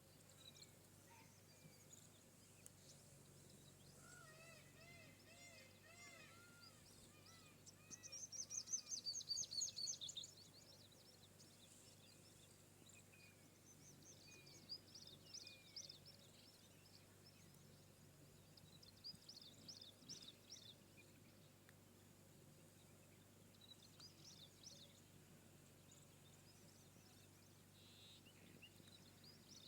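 Birds singing and calling, faint, over a low steady background hum: runs of short arched whistled notes, then a loud, rapid, high trill about eight seconds in lasting some two seconds, followed by scattered chirps.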